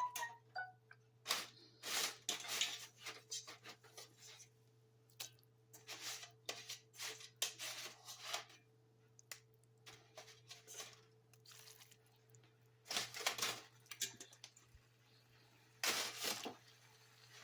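Spinach leaves being handled, rustling and crunching in short, irregular bursts, over a steady low hum.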